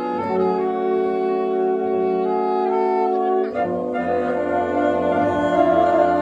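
Wind orchestra of brass and saxophones playing sustained held chords, moving to a new, fuller chord about three and a half seconds in.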